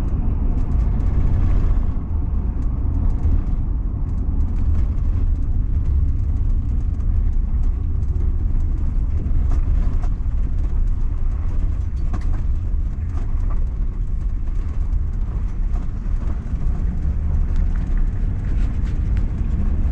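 Heavy van driving slowly on a wet dirt-and-gravel road, heard from inside the cabin: a steady low rumble of engine and tyres, with scattered faint ticks.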